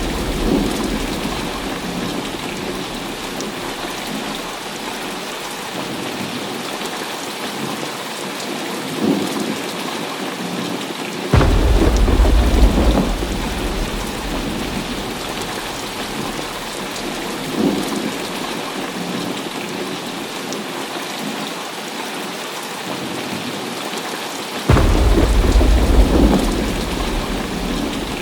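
Heavy rain falling steadily, with thunder: two sharp thunderclaps, about eleven seconds in and again near the end, each rolling into a low rumble for a few seconds, and fainter rumbles in between.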